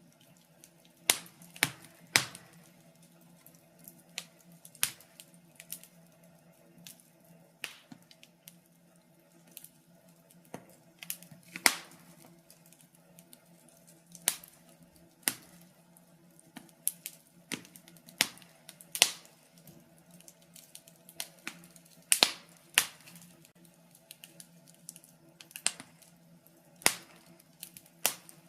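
Wood fire crackling: irregular sharp snaps and pops, some loud and some faint, over a faint steady low hum.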